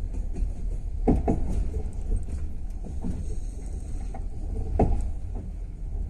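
Passenger train coach running along the track, heard from inside: a steady low rumble of wheels on rails with occasional sharp knocks, two close together about a second in and another about five seconds in.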